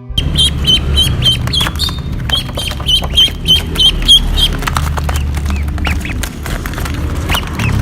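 Birds calling: a run of short, high, repeated calls, about three a second, over crackling noise and a low rumble. The calls thin out about halfway through.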